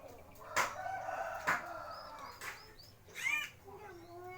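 A rooster crowing once in a drawn-out call, with short high chirps from a small bird and a few sharp clicks.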